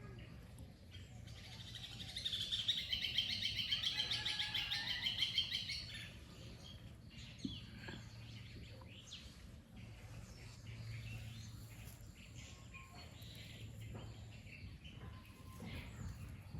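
A bird's rapid trill of high chirps lasting about four seconds, followed by faint scattered chirps over a low background hum.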